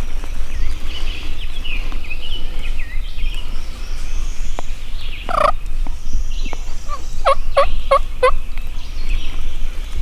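Wild turkey gobbling close by: one short burst a little past halfway, then a fast rattling gobble of about five quick strokes. Faint higher bird chirps come before it.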